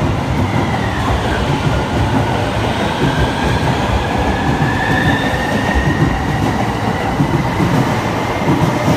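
JR East E231-series electric train pulling into a station: steady rumble and clatter of the cars rolling past on the rails, with a thin high squeal held through most of it.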